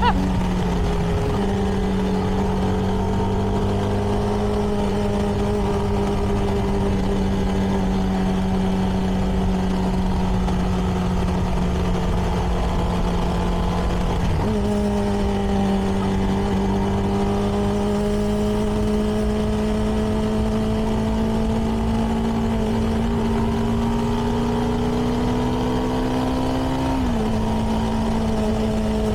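CFMoto 300NK single-cylinder engine running through its stock exhaust while the motorcycle is ridden at a steady pace. The engine note holds steady, dips briefly about halfway, then climbs slowly and drops again near the end.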